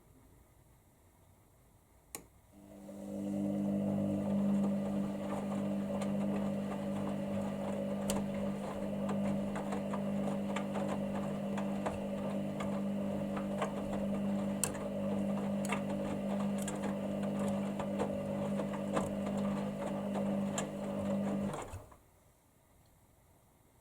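Hoover Dynamic Next washer-dryer's motor turning the drum in the wash: a click about two seconds in, then a steady hum with light clicks and ticks for about twenty seconds that cuts off suddenly near the end, one tumble phase of the wash.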